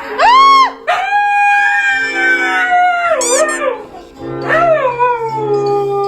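Dog howling, a short rising-and-falling howl, then a long drawn-out howl sliding slowly down in pitch, a brief high wavering cry, and another long howl falling in pitch.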